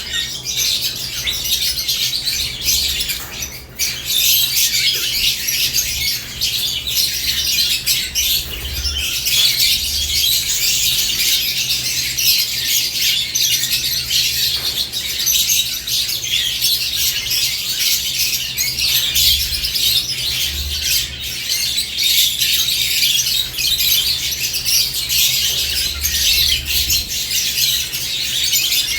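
Lovebirds chirping and squawking together in a cage: a dense, unbroken high-pitched chatter.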